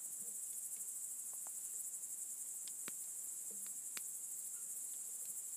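Crickets chirping in a steady high-pitched chorus, with a few faint sharp pops from a crackling wood campfire.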